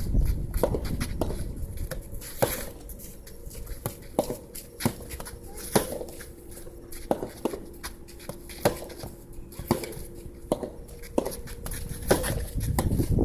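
Soft tennis rally practice: rubber balls popping off racket strings and bouncing on the court, sharp irregular hits about every half second to second. Wind rumbles on the microphone, heaviest at the start and again near the end.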